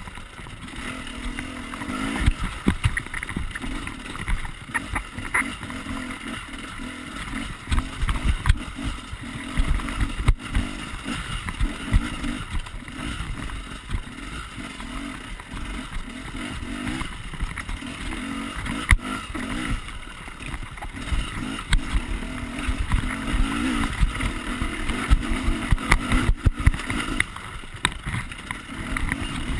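Husaberg enduro motorcycle engine running while riding a rough forest trail, its note rising and falling with the throttle. Frequent short low thumps run through it.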